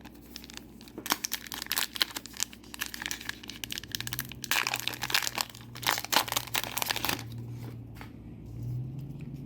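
Foil wrapper of a Disney Lorcana booster pack being torn open and crinkled by hand: a run of sharp crackles and rustles, densest a little past the middle.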